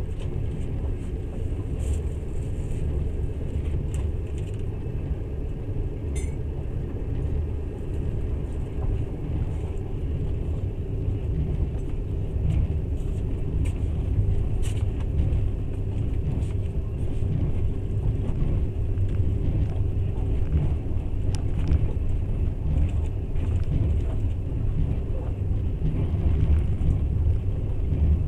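Steady low rumble of a moving passenger train, heard from the carriage window, with a few faint clicks and knocks over it.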